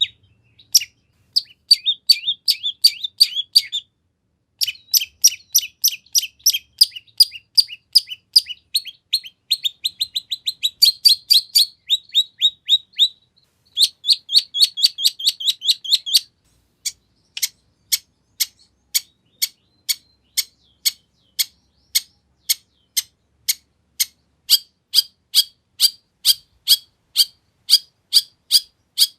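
Long-tailed shrike (cendet) singing: fast runs of sharp, high chirps with short breaks, then, from about halfway, a slower series of evenly spaced chips, about two a second.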